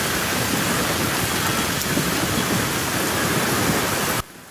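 Heavy rain falling steadily, a dense even hiss of many drops, cutting off sharply near the end.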